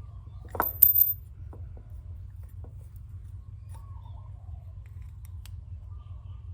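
A quick run of sharp metallic clicks from tools or parts being handled, about half a second in, then a few faint ticks, over a steady low hum.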